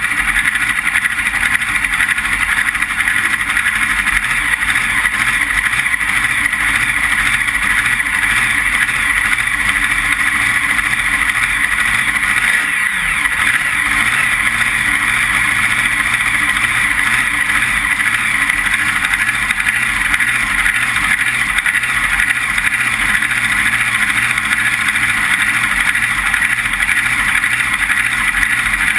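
Steady vehicle noise heard from onboard a front-engine dragster, even and unbroken with no revving.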